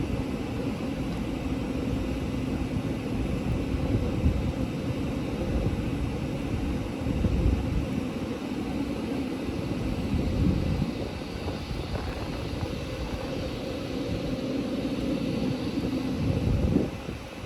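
Taiwan Railways train rumbling steadily, with a constant low hum; a faint high whine joins in during the second half, and the sound drops off sharply near the end.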